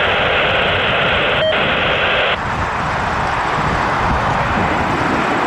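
Steady jet airliner engine noise. For the first two seconds or so it is overlaid with the hiss of an open air-traffic-control radio channel carrying no voice, with a click about a second and a half in, before the hiss cuts off sharply.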